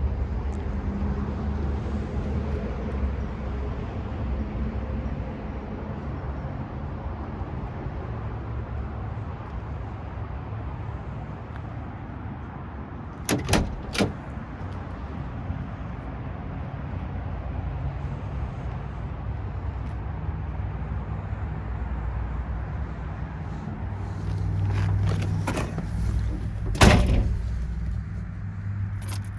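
Car door sounds over a steady low rumble: two sharp clicks about halfway through and a loud slam near the end.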